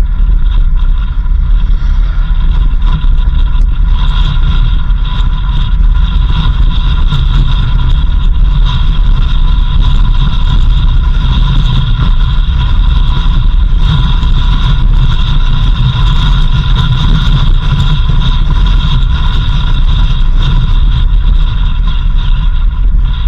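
Vehicle driving along a dirt road: a steady, loud low rumble of road and wind noise on the microphone, with a steady high whine over it.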